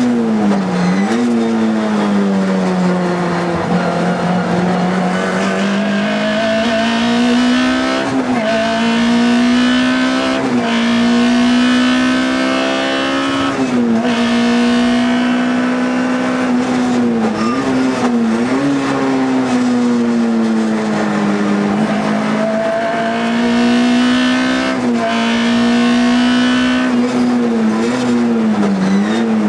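Škoda Felicia Kit Car rally engine, a four-cylinder, heard from inside the cockpit. It runs hard at high revs, and its pitch drops briefly and climbs back several times as gears change.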